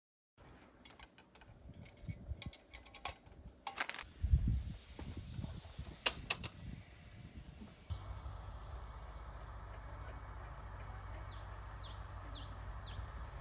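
Scattered clicks and knocks, the loudest two about four and six seconds in. From about eight seconds a steady low background hum sets in, and small birds chirp several times near the end.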